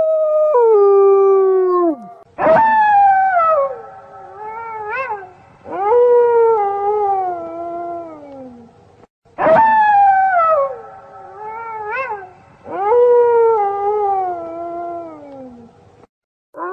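A pack of wolves howling together in several overlapping voices, in long drawn-out howls that slide down in pitch, with a short rising-and-falling call in between. A held howl drops away near the start. The chorus then breaks in abruptly twice, and the same passage plays both times.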